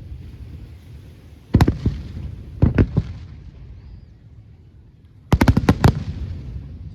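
Fireworks bursting overhead: a pair of bangs, then a group of three, then a quick volley of about six near the end, each group trailing off in a low rolling rumble.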